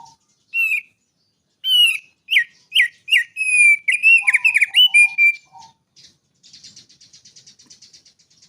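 Male thick-billed white-eye (opior paruh tebal) singing: a run of loud, sharp whistled notes sliding up and down, then a fast, dry ticking trill of about eight notes a second in the last two seconds.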